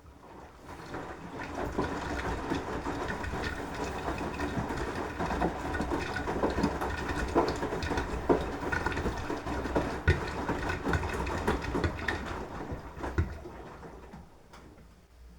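Beko washing machine's drum turning during the wash cycle: the motor starts up, runs the drum steadily for about twelve seconds with the load knocking and swishing inside, then slows to a stop.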